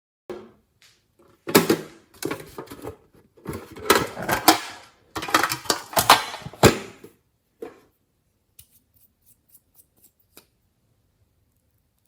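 Hands squeezing and stretching sticky slime, giving irregular bursts of wet crackling and popping clicks, then a few faint separate clicks near the end.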